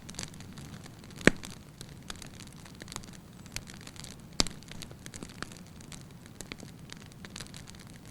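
Wood fire burning in a fireplace: logs crackling with scattered sharp pops over a low steady hiss, two pops standing out loudest, one a little over a second in and one past the middle.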